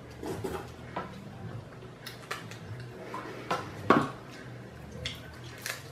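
Eating sounds from a seafood boil: scattered clicks and cracks of crab legs being broken open and handled against plates and utensils, the loudest about four seconds in.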